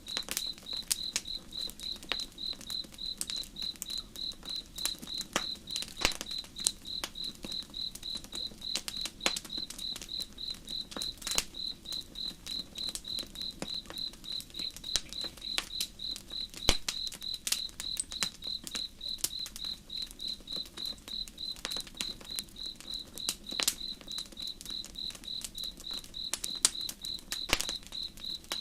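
A cricket chirping steadily at about two chirps a second, with sharp crackles and pops from a burning campfire scattered through it.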